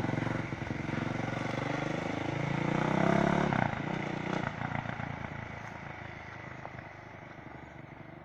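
Yamaha YZ426F dirt bike's four-stroke single-cylinder engine revving up, rising in pitch to its loudest about three seconds in, then fading away.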